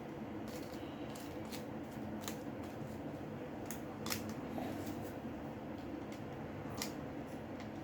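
Scattered light clicks and ticks of small tools and smartphone parts being handled during a phone repair, two a little louder about four and seven seconds in, over a steady low hum.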